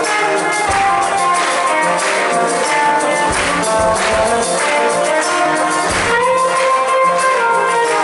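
Live rock music: a band playing, with guitar notes held over a steady low beat.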